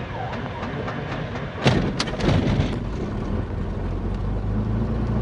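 Beechcraft Bonanza's six-cylinder piston engine turning over on the starter for about a second and a half, then firing with a few sharp pops and catching into a steady idle.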